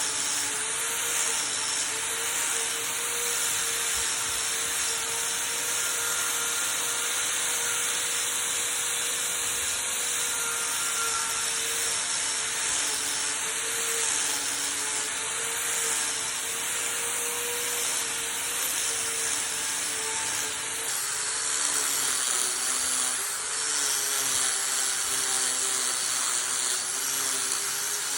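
A power tool running steadily as it works wood, with continuous cutting or sanding noise over a motor hum. About 21 seconds in, the motor's pitch drops a little and stays lower.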